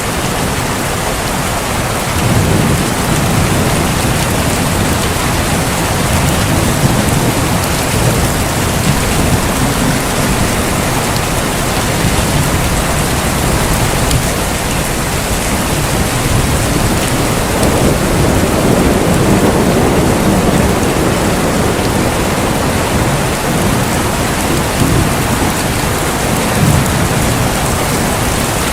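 Heavy, steady rain with low rolling thunder that swells up twice, a couple of seconds in and again past the middle.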